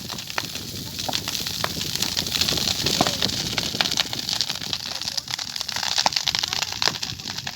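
São João bonfire burning, with irregular crackling pops over a steady hiss.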